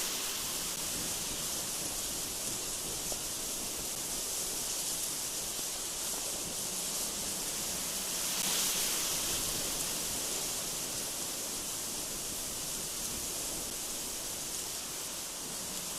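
Strong gusty wind blowing as a steady hiss, with a gust swelling about halfway through.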